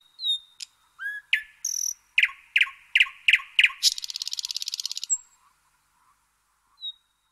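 Bird calls: a falling whistle, a few short chirps, then a run of five quick downward chirps, followed by a rapid trill about four seconds in and one more falling whistle near the end.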